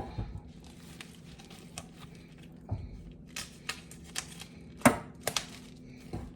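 Plastic film on a supermarket pack of raw chicken thighs being torn open and crinkled by hand: scattered sharp crackles and snaps, the loudest about five seconds in.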